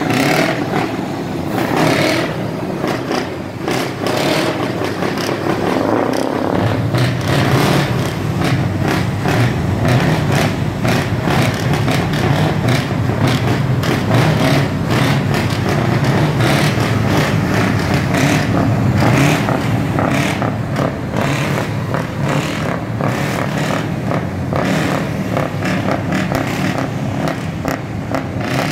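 Scania V8 diesel trucks with loud aftermarket exhausts running and revving; a heavier, deeper engine rumble builds about six seconds in and carries on, with a rapid crackle over it.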